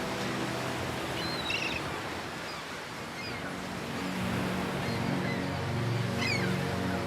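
Ocean-sound ambience, a steady wash of water noise, under soft ambient music of low held tones that swell about halfway through. A few short, high, falling chirps come about a second and a half in and again near the end.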